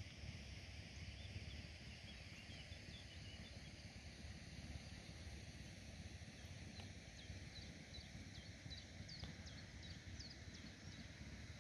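Faint outdoor ambience: a small bird's short, high chirps, coming regularly about twice a second from about halfway through, over a low steady rumble.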